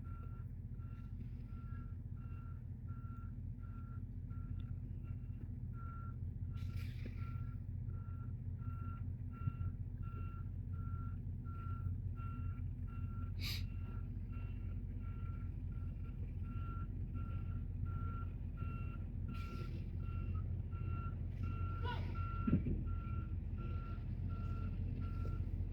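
Semi truck's backup alarm beeping, one steady tone about once a second, over the low running of its diesel engine as the tractor-trailer reverses toward a loading dock.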